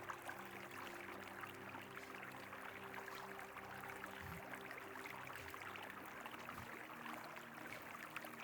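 Faint, steady rushing of river water, with a few soft low steady tones underneath.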